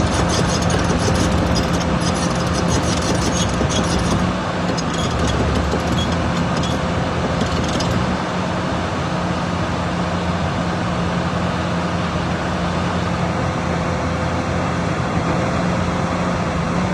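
Hyundai 495LVS crawler excavator's diesel engine running steadily. A rapid patter of high clicks sits over the engine during roughly the first eight seconds, then stops.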